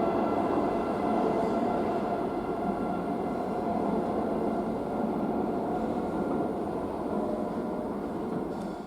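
Madrid Metro Line 5 train running through an underground station: a steady rumble with a constant hum of tones on top, slowly getting quieter as it moves off, cut off abruptly near the end.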